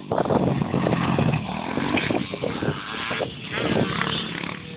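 Small motocross bike engine running and revving, the level rising and falling unevenly.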